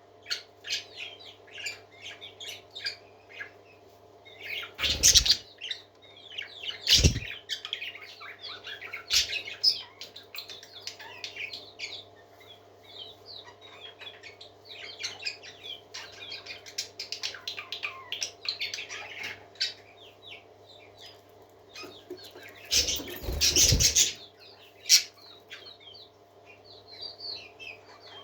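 A flock of pet parakeets chirping and chattering continuously in quick, warbling calls, with a few louder bursts about 5 and 7 seconds in and again around 23 seconds in, over a faint steady hum.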